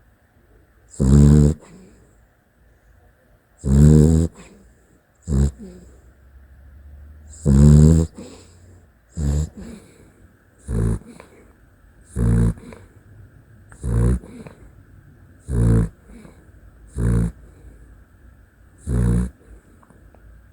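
Dachshund snoring in its sleep, about eleven pitched snores: the first few long and loud, two to three seconds apart, then a steady run of shorter snores about every second and a half.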